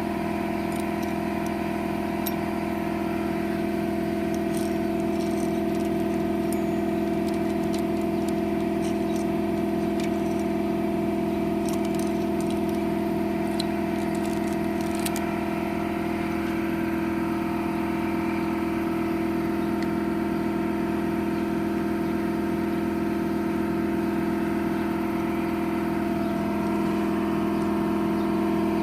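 A steady engine-like mechanical hum runs throughout at an even pitch, with scattered light metallic clinks and rattles in the first half.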